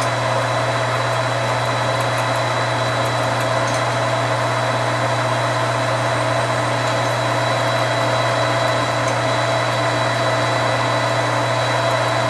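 Metal lathe running steadily with its drive humming and a steady whine above it, while a drill is fed into a 12L14 steel part.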